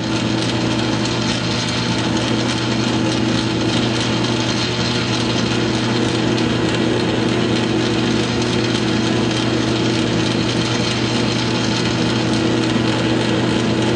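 South Bend lathe running steadily: a constant hum from the motor and gear train with an even whirring noise over it.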